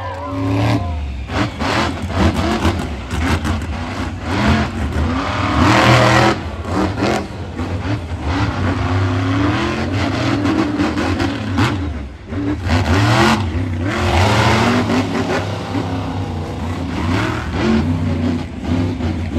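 Monster truck engine running hard and revving up and down, with louder surges about six seconds in and again around thirteen to fifteen seconds in.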